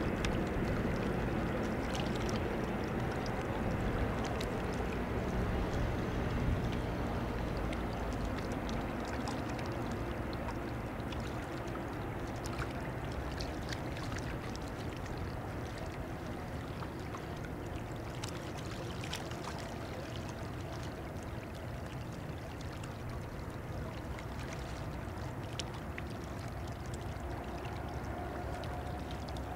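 Freight train running steadily along the far bank of the river, a distant continuous rumble of wagons heard across the water, a little louder over the first several seconds and then even, with small water splashes close by.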